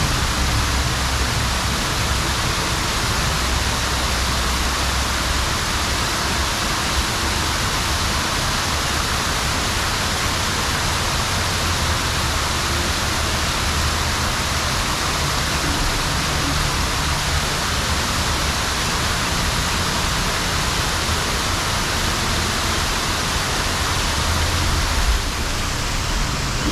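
Steady wind rush over a GoPro microphone while riding an e-bike, with a low rumble underneath.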